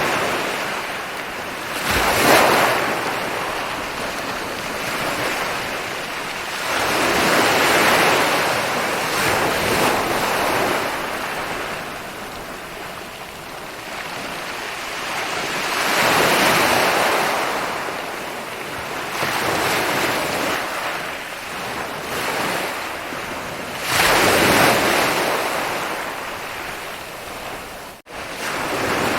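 Ocean waves breaking and washing up a beach, the surf swelling and ebbing with a new surge every few seconds. There is a brief dropout near the end.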